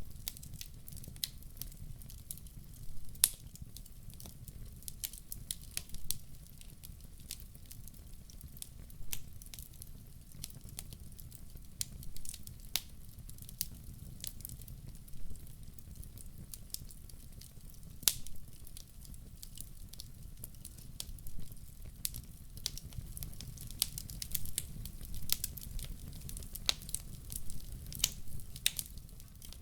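Wood fire burning, crackling with irregular sharp pops, a few of them loud, over a low steady rumble.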